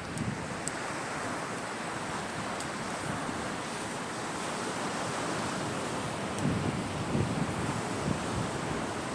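Caspian Sea waves washing onto the shore in a steady rush of surf, with wind buffeting the microphone in low gusts. A few faint, sharp high ticks sound over it.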